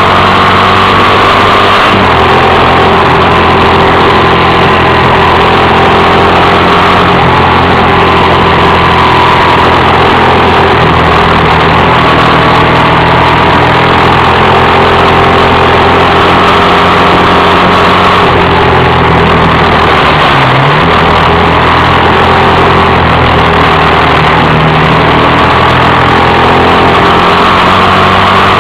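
Motorcycle engine running while riding, recorded by an action camera mounted on the bike. The note holds fairly steady with small shifts in pitch and a brief dip about twenty seconds in.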